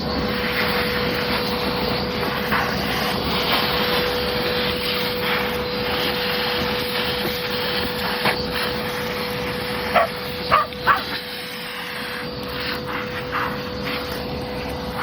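Shop vac running with a steady motor whine, sucking caked dirt out of an air-conditioner condenser's coil fins. Three short sharp sounds stand out about ten seconds in.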